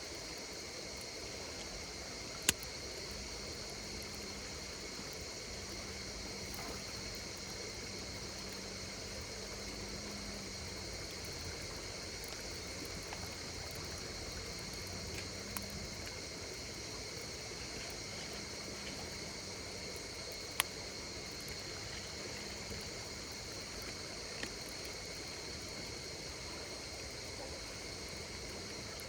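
Campfire burning with a soft hiss and a few sharp pops, two of them louder, about a tenth of the way in and about two-thirds through. Under it runs a steady chorus of night insects in high, unbroken bands.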